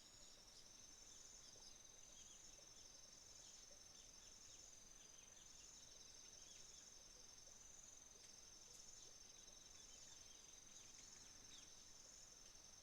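Faint chorus of autumn insects such as crickets, several trilling steadily at once at different high pitches. Many short, high, falling chirps of small birds are scattered over it.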